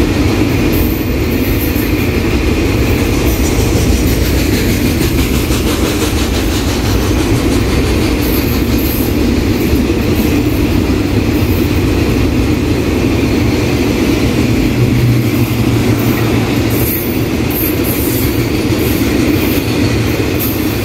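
A container freight train's loaded flatcars rolling past close by: a steady, loud rumble of steel wheels on the rails, with occasional short clicks.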